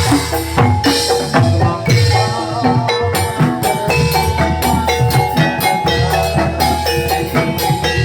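Javanese gamelan music accompanying a jathilan dance, played through a sound system: metallophones ringing out a repeating melody over steady kendang drum strokes.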